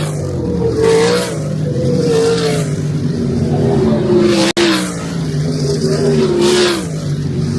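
Sprint cars' V8 engines racing on the dirt oval, pitch rising and falling as the cars pass, with several louder passes a second or two apart. The sound drops out for an instant about halfway.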